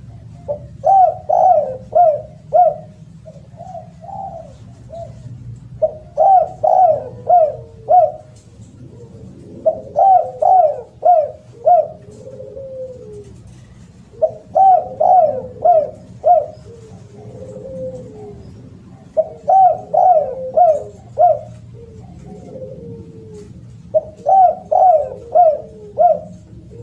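Spotted dove (derkuku) cooing loudly in repeated phrases of four or five short notes, six phrases about every four to five seconds, with softer, lower coos between them over a steady low hum.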